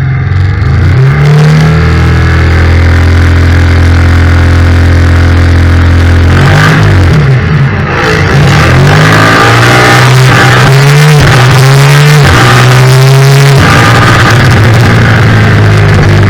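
Yamaha FZ-07 parallel-twin race bike engine held at steady revs, then accelerating hard through the gears. There are about five rising climbs, each cut short by an upshift, before it settles at a steady high rev, with wind rush growing as speed builds.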